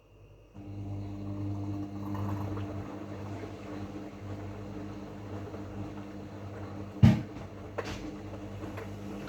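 LERAN WMS 27106 WD2 washing machine running: a steady motor hum that starts about half a second in, with one loud knock about seven seconds in.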